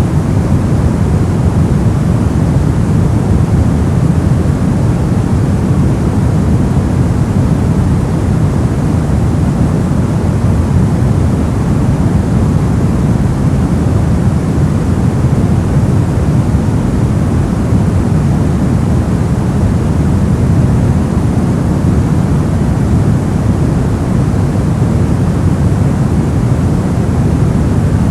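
Steady, unbroken noise played as a white-noise sleep and focus track, heavier in the low end than the high, so it comes across as a deep, even rush.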